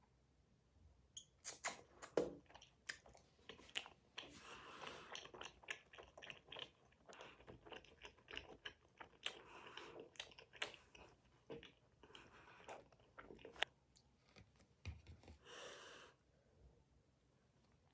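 A person chewing gummy candy close up, with irregular sharp clicks and crunchy, squishy bites; the sharpest bites come about two seconds in, and the chewing dies away near the end.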